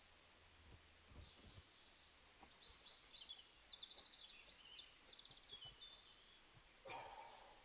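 Faint birdsong: small birds chirping and trilling, with a short rapid trill around the middle. A brief soft rustle or knock comes near the end.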